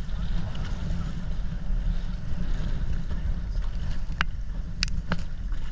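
Steady low rumble of wind buffeting the microphone on a moving tour boat, with the boat's engine running underneath. Three short high squeaks come near the end.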